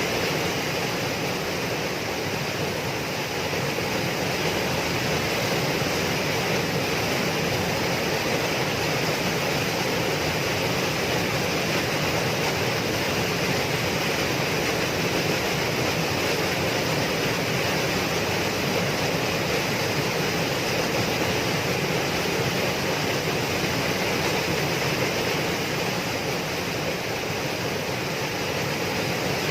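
Waterfall, a steady rushing of falling water with no breaks or changes.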